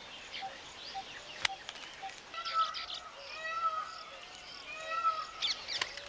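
Weaver birds chirping: quick high chirps and a clear whistled call repeated about every second and a half, with faint regular ticking under them and a single sharp click about a second and a half in.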